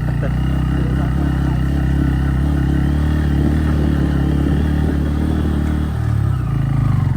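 Motorcycle engine running steadily at low speed on a rough dirt road; about six seconds in its note drops briefly, then comes back higher and louder as the engine picks up.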